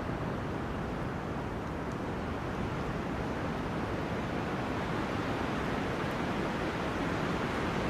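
Wind blowing through forest trees: a steady rushing noise that swells slightly in the second half.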